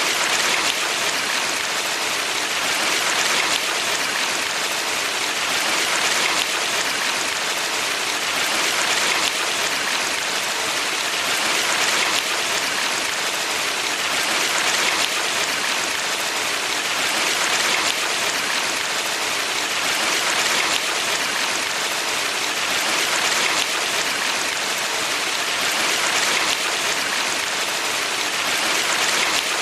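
Valley stream water rushing in a steady, even hiss that swells slightly about every three seconds.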